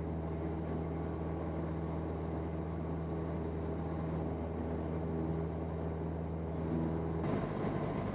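Cessna 172N's four-cylinder Lycoming engine and propeller droning steadily in flight, heard inside the cabin; the tone shifts slightly about seven seconds in.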